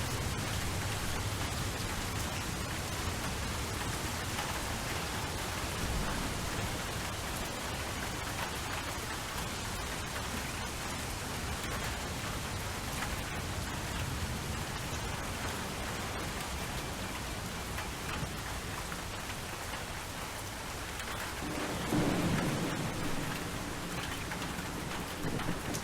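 Steady rainfall on a surface, with a low rumble of thunder swelling near the end.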